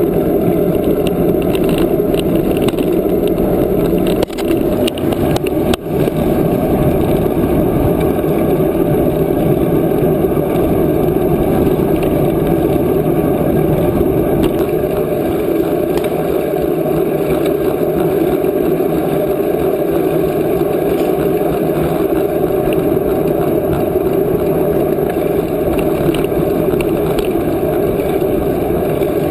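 Steady, loud wind noise buffeting the microphone of a camera carried on a moving bicycle, with a couple of brief dips about four and six seconds in.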